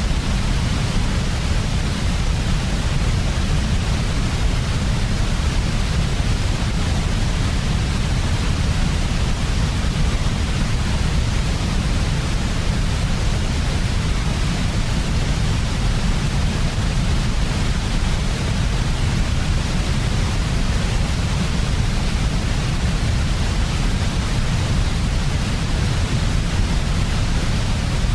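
Steady white noise for sleep, an even hiss that never changes, with most of its weight in the deep bass and a fainter hiss above.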